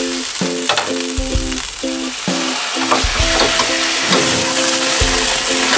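Onions and green peppers sizzling hard in a frying skillet, with a steady hiss throughout. Background music with a repeating chord pattern plays under it.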